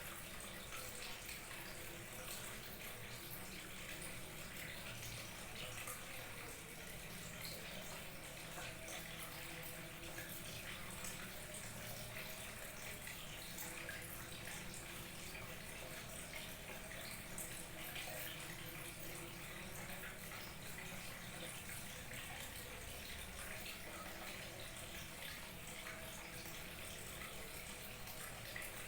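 Small waterfall trickling and splashing steadily.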